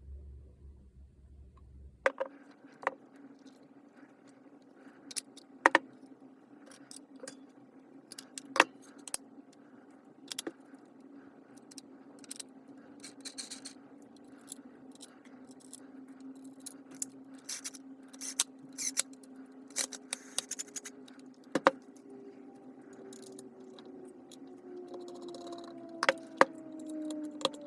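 Small metal parts of a cordless disc grinder clicking and clinking as the tool is handled and worked on, over a low steady hum. Near the end a faint whine slowly falls in pitch.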